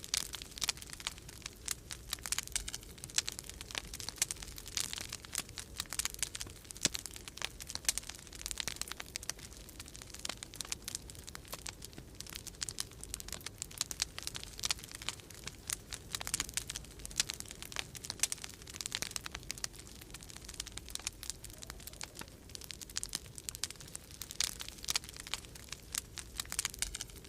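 Wood fire in a fireplace crackling, with dense, irregular small pops and snaps throughout, over a low steady rumble of storm wind.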